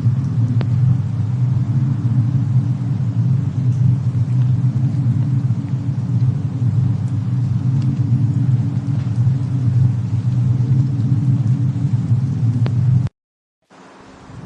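Fireplace-and-snowstorm ambience: a steady low rumble with a few faint fire crackles, one a little after the start and one near the end. Near the end the sound cuts out completely for about half a second, then fades back in, as at a loop point in the track.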